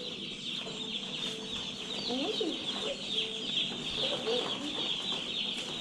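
A large flock of Cornish Cross meat chicks peeping continuously, many high chirps overlapping in a steady chorus.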